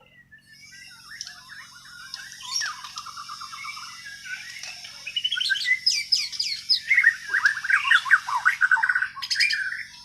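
Bornean white-rumped shama (murai batu) singing a long, varied song of rapid whistles and trills, which grows louder about halfway through.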